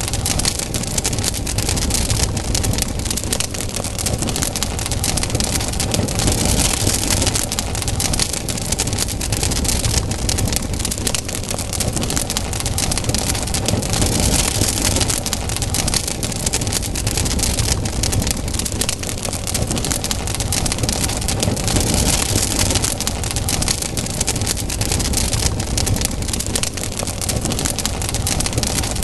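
Campfire burning: wood crackling and popping in many quick, irregular snaps over a steady rushing of the flames.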